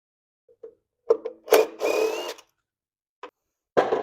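Handheld power tool, such as a cordless drill or electric ratchet, running in short bursts: a brief spin about a second in, a longer one with a rising whine, then two more short spins near the end. It is backing out the timing cover bolts on a Coyote 5.0 V8.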